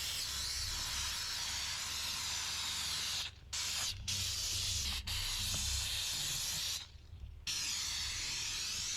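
Steam cleaner nozzle jetting hot steam with a steady hiss, broken by brief cut-offs and a longer one about seven seconds in as the flow stops and restarts.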